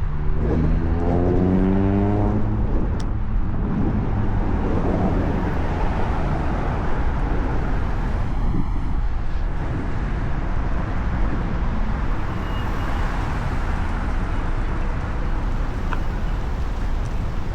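Steady city traffic and road rumble. In the first two seconds or so, a motor vehicle's engine rises in pitch as it accelerates.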